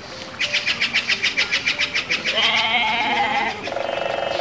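Sheep bleating: a fast quavering run of pulses, then drawn-out wavering bleats, the last one held steady with a rapid tremble.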